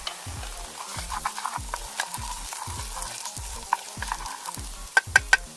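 Food frying and sizzling in a pan over a campfire while being stirred, with a steady hiss and small scraping clicks of the utensil against the pan; three sharp clicks come near the end. The contents are browning toward a crust on the pan's bottom.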